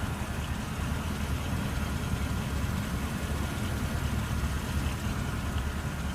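Car engine idling: a steady low rumble that holds even throughout.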